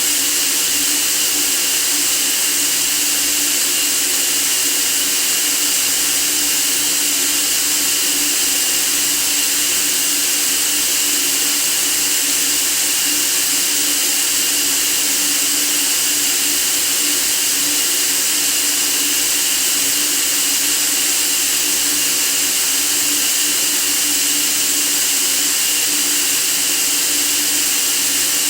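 Steady white noise for sleep: an unchanging hiss, strongest and brightest in the high range, with a faint steady hum lower down.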